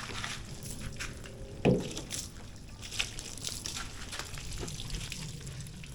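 Water sloshing and trickling while a car is washed by hand, with scattered small clicks and one louder short knock just under two seconds in.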